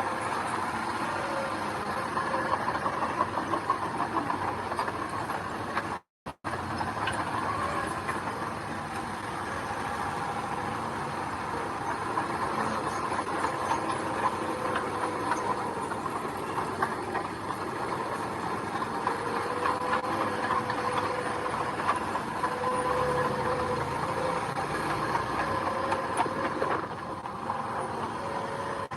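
Heavy diesel earthmoving machinery running steadily, with a faint wavering whine above the engine noise. The sound cuts out completely for a moment about six seconds in.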